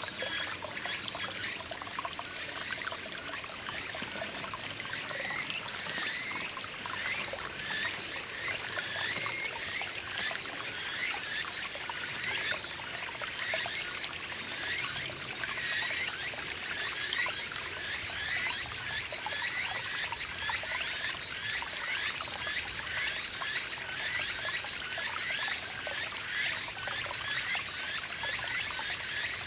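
Small mountain stream babbling and trickling steadily over rocks. Short rising chirps repeat about once or twice a second over the water.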